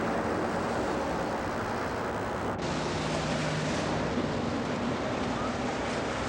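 Steady, even rushing noise with a faint low hum, broken by an abrupt cut about two and a half seconds in.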